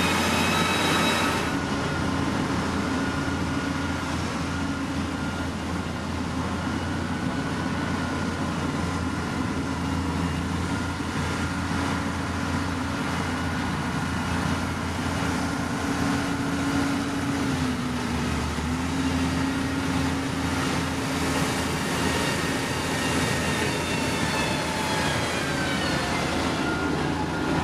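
Diesel engine of heavy earthmoving machinery running steadily under load, its pitch falling near the end.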